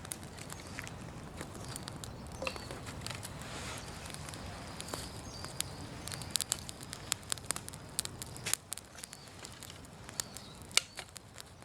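Outdoor bonfire crackling with irregular sharp pops and snaps over a steady low rush of burning.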